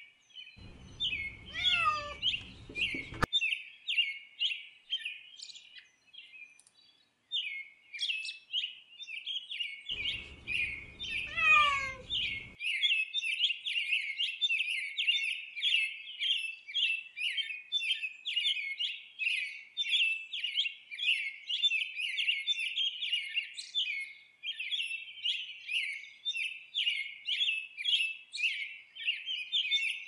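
Small birds chirping in quick, repeated notes, dense and continuous apart from a brief lull early on. Twice a separate call slides down in pitch over a faint rushing noise.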